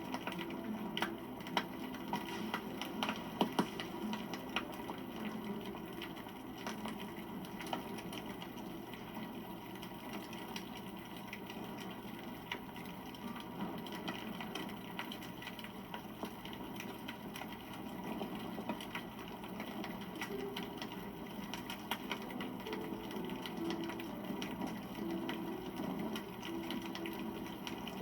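Wood campfire burning: a steady rushing sound with frequent small crackles and pops, a few sharper pops in the first few seconds.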